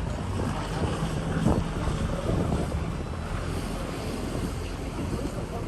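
Wind buffeting the microphone on the open deck of a cruise ship at sea, with a steady low rumble underneath.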